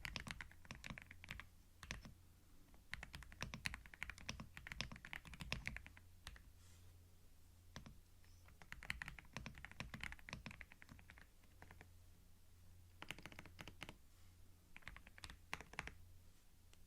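Typing on a computer keyboard, recorded binaurally: rapid key clicks in runs of a second or two, broken by short pauses, over a faint low hum.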